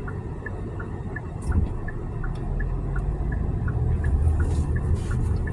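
Car turn-signal indicator ticking in an even tick-tock about three times a second, over the low rumble of the moving car, which grows louder about a second and a half in.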